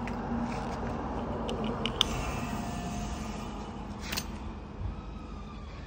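Newly fitted fridge compressor running with a steady hum, with a couple of sharp clicks about two and four seconds in.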